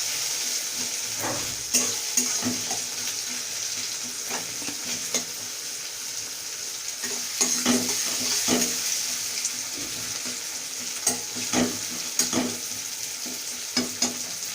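Chopped onion sizzling steadily in hot mustard oil in a kadai, stirred, with irregular scraping knocks against the pan.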